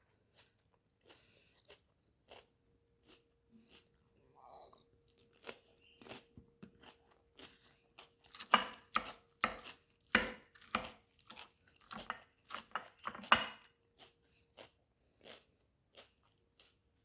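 Someone chewing crunchy raw salad: irregular crisp crunches, densest and loudest in the middle.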